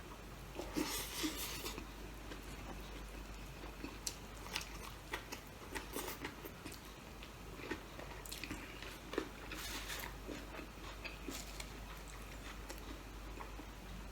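A person eating close to the microphone: biting and chewing, with scattered crisp clicks and crunches. Two longer noisy stretches come about a second in and again near ten seconds.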